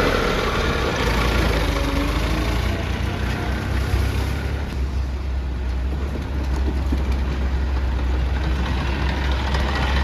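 A heavy machine's engine running steadily at low speed, its low hum dropping a little in pitch about a second in.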